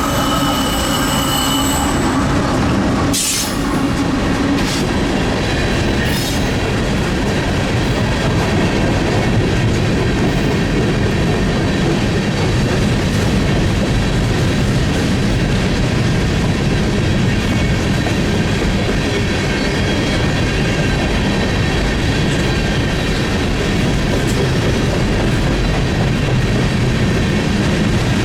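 Freight train cars rolling past on the rails in a steady, dense rumble. A high wheel squeal is heard in the first couple of seconds, with a sharp clank about three seconds in and a lighter one a few seconds later.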